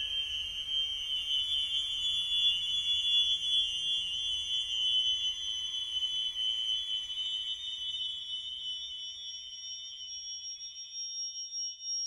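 Electronic drone of steady, high-pitched sine-like tones held together in a close cluster, over a faint low rumble that fades away about three-quarters of the way through; near the end a still higher tone grows louder.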